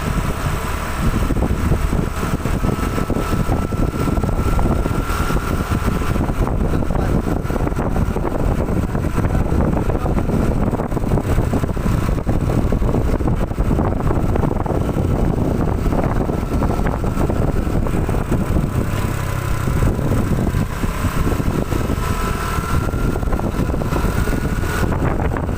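Truck engine running steadily and loudly with a deep rumble, carrying a faint whine that drifts up and down in pitch.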